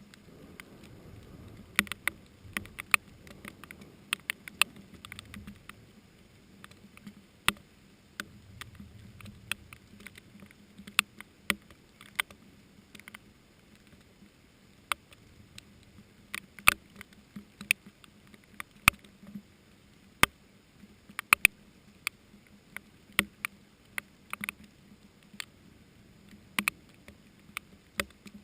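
Rain during a thunderstorm, heard as irregular sharp taps of large drops striking close to the microphone, several a second at times. A faint low rumble of distant thunder comes twice in the first ten seconds.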